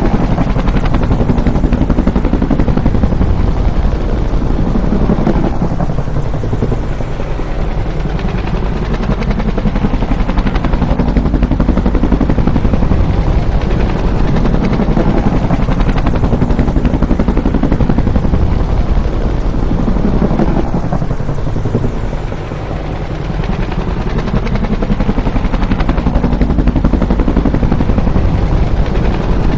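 Bell UH-1 "Huey" helicopter flying past, its rotor beating in a fast, steady rhythm under a heavy continuous rumble. The pitch glides and the sound eases and swells again twice as the pass repeats.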